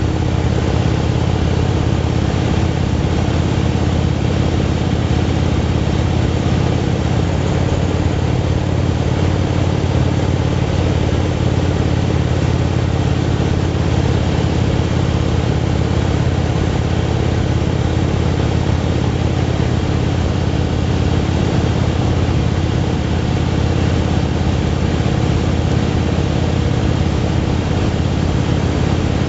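Motorcycle engine running at a steady cruising speed, its pitch holding even throughout, over a constant haze of wind and road noise.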